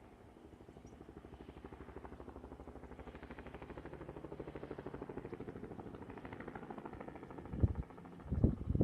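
Helicopter rotor beating in a rapid, even pulse that slowly grows louder. Gusts of wind buffet the microphone near the end.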